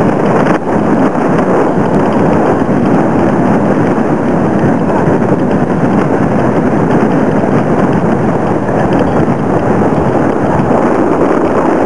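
Fireworks giving off a dense, continuous crackle and hiss that holds steady and loud throughout.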